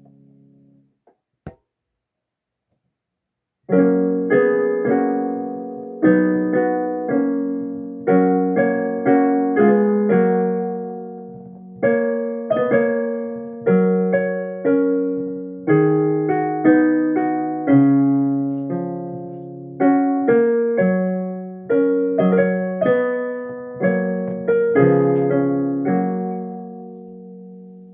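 Solo piano playing a short piece of chords and melody notes with a steady beat. It starts about four seconds in, after a single click and a short silence.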